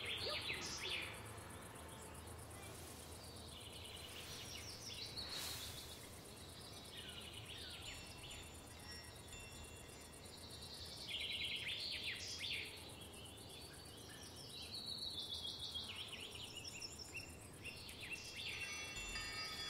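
Birds calling in bursts every few seconds, quick chirping trills and a few short falling whistles, over faint steady background noise.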